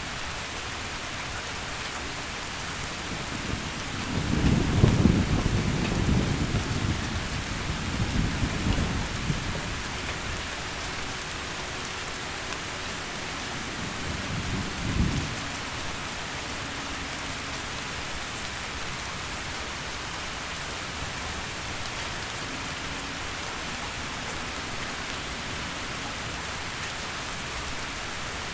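Heavy rain falling steadily, with rolling thunder about four seconds in that lasts several seconds, and a shorter rumble about halfway through that cuts off suddenly.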